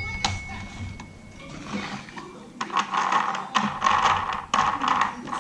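Rapid plastic clicking and rattling from a Fisher-Price Little People toy farm playset being handled, starting about two and a half seconds in and running dense and busy until near the end.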